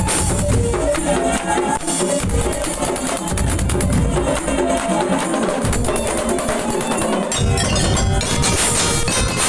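Madurese daul music played loud: a percussion ensemble of drums, clacking wood-block-like strokes and jingling cymbals driving a quick melodic line. Deep bass-drum hits come in stretches and drop out between them.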